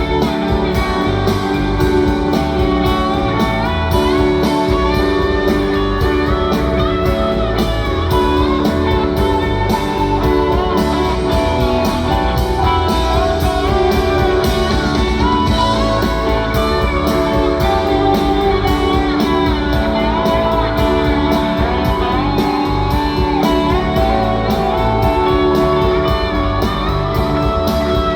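Live rock band playing an instrumental passage, with electric guitars and a steady drum beat.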